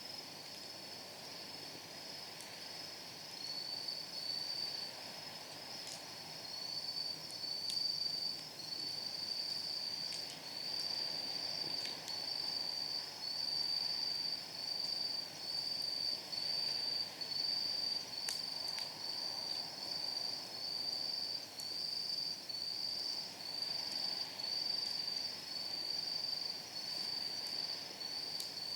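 Night insects chirping in a steady pulsing rhythm, a little more than one pulse a second, growing louder a few seconds in. A wood fire gives a few sharp, scattered pops as the firewood crackles.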